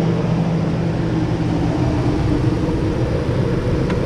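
2004 Chevrolet Tahoe's V8 engine running steadily, with freshly installed spark plugs and plug wires.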